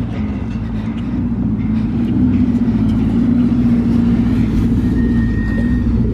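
Vehicle engine running at steady revs: a steady low drone that gets a little louder over the first couple of seconds.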